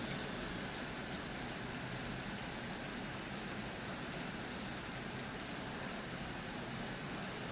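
Steady rain during a storm: an even hiss with no separate drops or thunderclaps.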